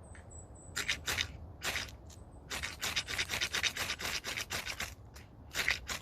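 Short, quick scraping strokes of a blade on campfire tinder: a few separate strokes, then a fast run of about four or five a second, then one more near the end.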